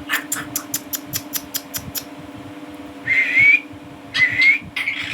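Pet myna bird giving a quick run of about ten sharp clicks, roughly five a second, then two short rising whistles and a third call near the end.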